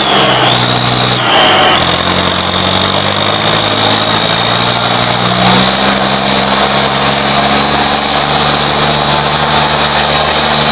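Tractor diesel engines running hard with steady pitch that shifts a few times, as in a tractor tug-of-war. A steady high whine sits above them.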